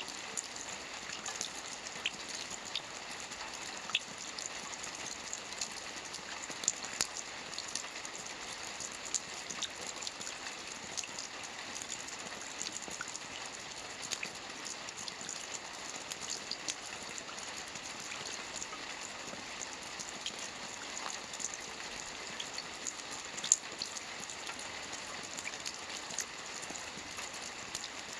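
Steady rain falling on a lake, a constant hiss with many small drops pattering sharply on the surface.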